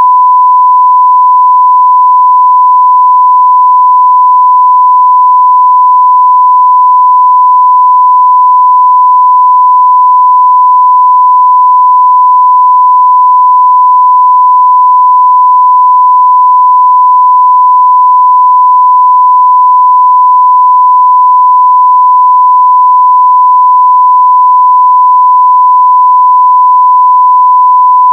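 A continuous, steady 1 kHz sine-wave test tone at full level (0 dB), one pure unchanging pitch.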